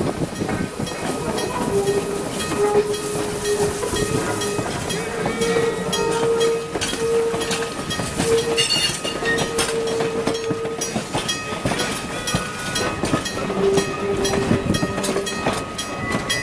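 Vintage passenger coaches of a steam-hauled train rolling past at close range, their wheels clicking over the rail joints. A steady tone comes and goes over the rolling.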